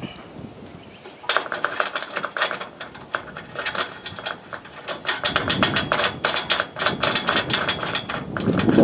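Tool work on solar panel mounting rails: two runs of rapid, sharp metallic clicks or taps, one starting about a second in and a longer one from about five seconds to near the end.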